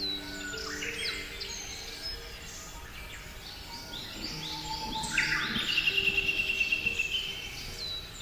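Birds chirping over soft background music: many short high chirps that slide down in pitch, and a rapid trill of about eight notes a second just past the middle, over held low notes.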